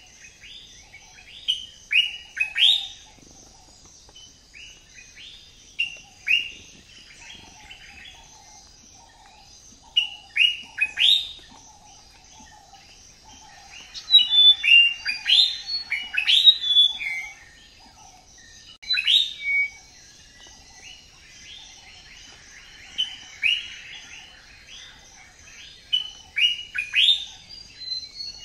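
Wild birds chirping in the trees: many short, sharp calls, each sweeping down in pitch, come in quick clusters, busiest around the middle. They sit over a steady high-pitched background chorus.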